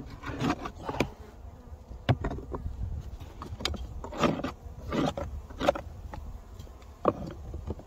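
Honeybees buzzing at a hive entrance, with a handful of sharp knocks and scrapes as the entrance, plugged with dead bees after a snowstorm, is cleared.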